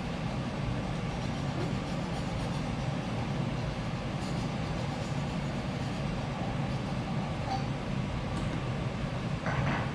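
A steady low rumble with no clear strokes or rhythm.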